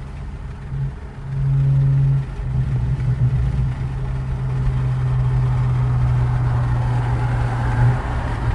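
BMW 540i's big-turbo B58 straight-six running with a steady low drone at constant revs, getting louder about a second in and holding there.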